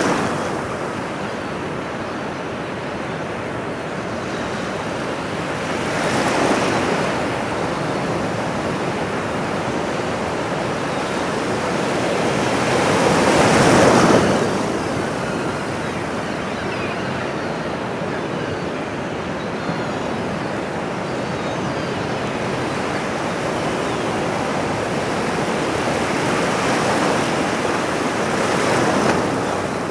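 Ocean waves washing ashore: a steady rush of surf that swells several times, loudest about halfway through.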